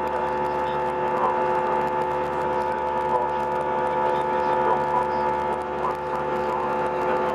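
Steady humming cabin noise aboard an Airbus A319, several fixed tones over a low rush, with faint voices in the background.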